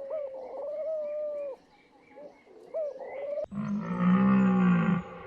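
Bird calls with gliding, warbling notes, then an abrupt cut to a loud, deep, drawn-out call from a large animal lasting about a second and a half.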